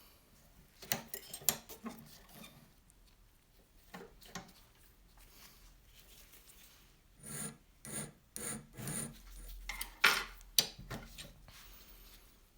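Abrasive hand strokes rubbing a lamp part, coming in irregular short runs. A run of four even strokes about half a second apart comes midway, and the loudest strokes come near the end.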